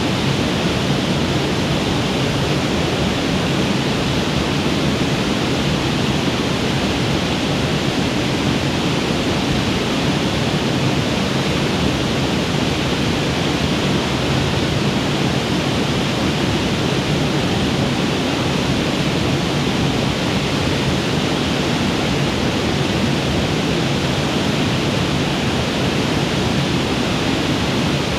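A waterfall on a mountain creek, its falling water rushing in a loud, steady, unbroken wash of sound.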